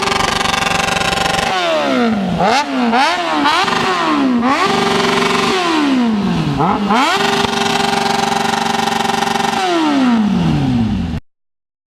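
Sport motorcycle engine being revved: a held high rev that drops away, a quick run of sharp throttle blips, then another high rev held for a few seconds before it falls off. The sound cuts off abruptly near the end.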